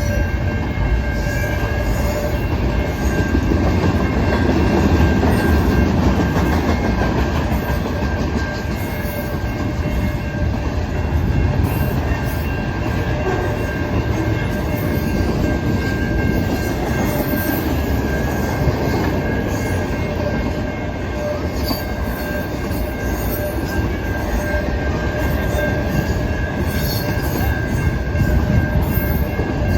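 BNSF intermodal freight train's cars rolling past on the rails: a steady heavy rumble with thin, steady high tones held over it.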